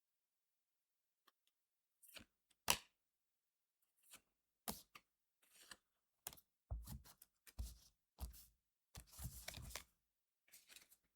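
Trading card booster pack and cards being handled: a run of short crinkles, snaps and rustles starting about two seconds in, with a few dull bumps against the table in the second half.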